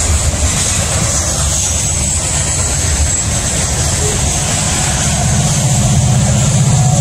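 Freight train hopper cars rolling past, a steady rumble of steel wheels on rail with a high hiss. About five seconds in, the low drone of an approaching diesel locomotive grows stronger.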